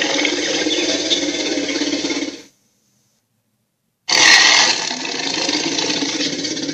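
Electronic dragon toy playing its recorded sound effects through a small speaker, with a rattling, buzzing texture. One clip cuts off about two and a half seconds in, and after a short silence another starts suddenly about four seconds in.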